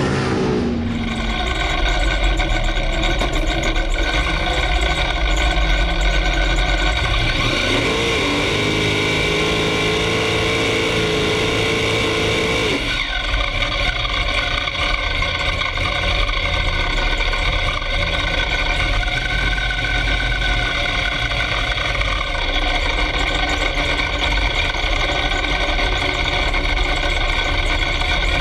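Drag race car's engine running at a steady idle, heard from inside the caged cockpit. In the first second a vehicle's engine sound falls in pitch.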